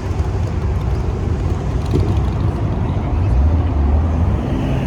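Car engines running, a low rumble that swells louder about three seconds in.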